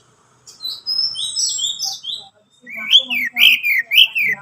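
Orange-headed thrush singing: a phrase of high, sliding whistled notes, then after a short pause three loud arched notes that each rise and fall.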